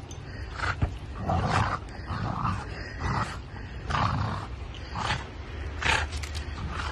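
Dog growling in short rough bouts, about one a second.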